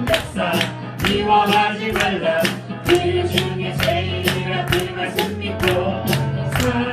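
Gospel worship music from a praise band, held notes over a steady beat of sharp hits about twice a second.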